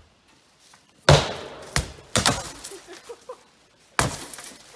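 Four heavy blows against a Honda CR-V being demolished, breaking its glass; the first, about a second in, is the loudest, and each is followed by a crunching, trailing rattle of broken glass.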